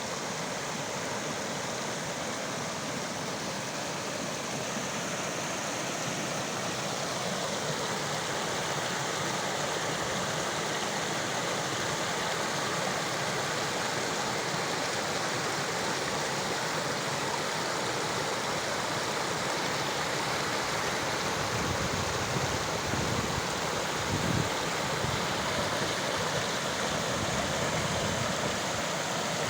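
Snowmelt mountain stream rushing steadily over rocks. A few low rumbles come in about three-quarters of the way through.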